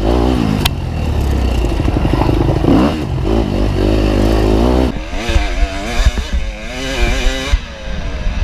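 Dirt bike engine revving up and down repeatedly under a rider on a wooded race trail, with clatter and knocks from the bike over rough ground.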